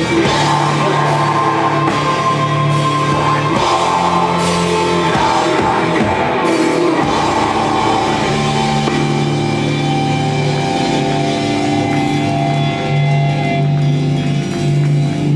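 Live rock band playing heavy, guitar-driven music with drums; about halfway through the drum hits thin out, leaving long sustained chords.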